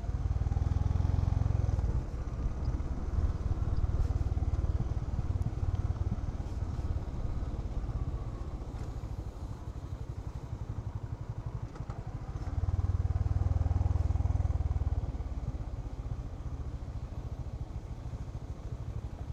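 Honda H'ness CB350's single-cylinder engine running in low gear on a steep downhill, heard from the riding motorcycle. It grows louder for a couple of seconds at the start and again about two-thirds of the way through.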